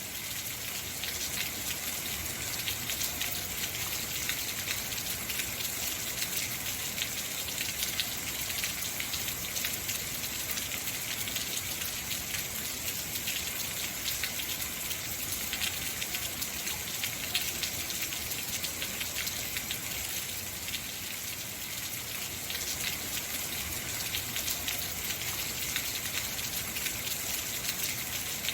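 Heavy rain falling steadily, a dense even hiss of drops with fine pattering ticks throughout.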